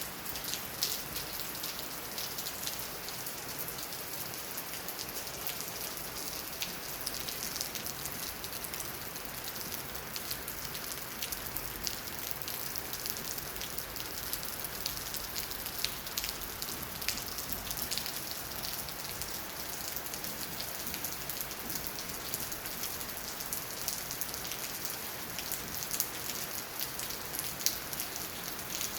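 Steady rain falling, with a continuous hiss and the many small ticks of drops striking hard surfaces.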